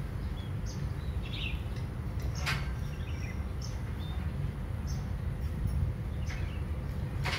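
Small birds chirping in short scattered calls over a steady low rumble, with a sharp click about two and a half seconds in and another near the end.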